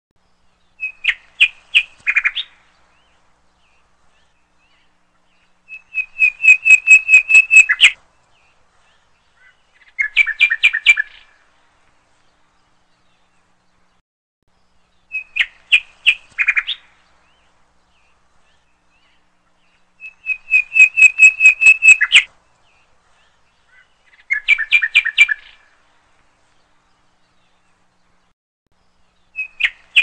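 Bird song: trilled phrases of quick, high chirps, about ten notes a second, in groups of three with pauses between. The same sequence of phrases repeats about every 14 seconds, like a looped recording.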